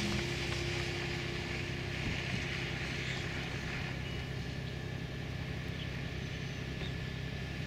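Steady car engine and road noise heard from inside the cabin while driving on a snowy road.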